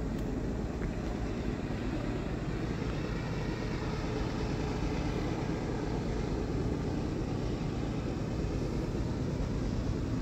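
Diesel locomotives of an approaching freight train, heard from a distance as a steady low rumble.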